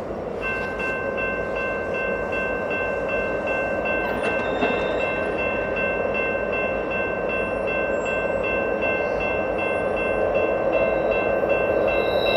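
BNSF diesel locomotives with a loaded coal train starting to move, their rumble growing slowly louder. Over it a bell rings in quick, even strokes from about half a second in.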